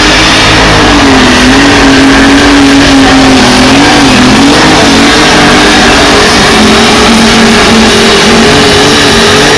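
Super stock pulling tractor's engine at full throttle during a pull. It is very loud, and its pitch wavers and dips briefly about four seconds in.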